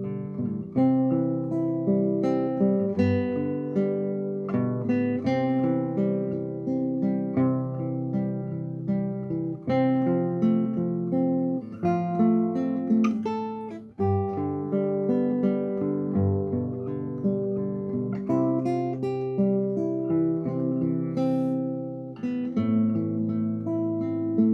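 Solo classical guitar, fingerpicked melody over plucked bass notes and chords, with a brief break about fourteen seconds in before the playing resumes.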